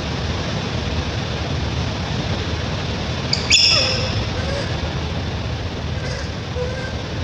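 A baby monkey gives one short, high-pitched squeal about halfway through, falling in pitch at the end, over a steady low background rumble.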